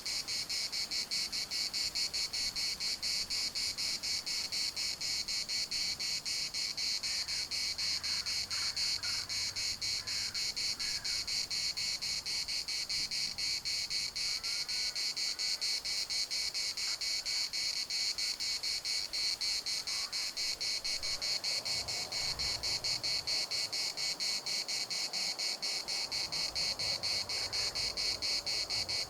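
Cicadas singing in a dense chorus: a steady, high, rapidly pulsing buzz that never lets up.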